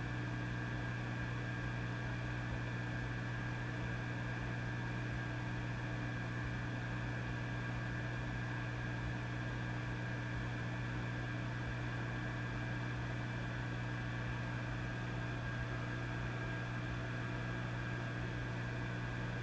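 Vintage valve amplifier idling with no signal: a steady mains hum with a few higher steady tones over an even hiss.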